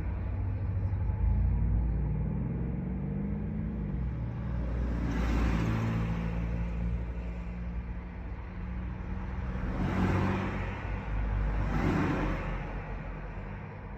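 A large vehicle's engine running: its pitch climbs over the first few seconds, then settles to a steady drone. Three louder whooshing swells come about five, ten and twelve seconds in.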